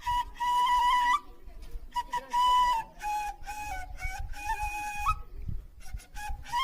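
Solo flute playing a slow melody of held notes that step up and down, with short breaks for breath about a second in and again near the end.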